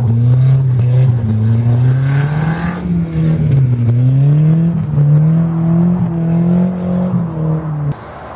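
Volvo drift car's engine revving up and down in repeated swells as the car slides through a drift on the ice. The engine sound drops off suddenly near the end.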